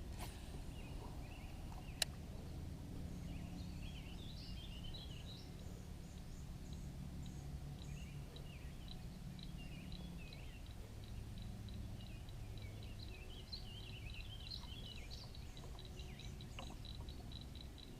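Songbirds chirping and twittering over a steady low rumble, with one sharp click about two seconds in and a rapid run of high ticks in the last few seconds.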